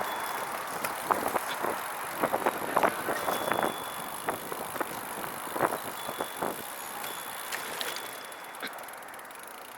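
Catrike 700 recumbent trike rolling along, with tyre and road noise and irregular clicks and rattles from the trike, growing quieter toward the end.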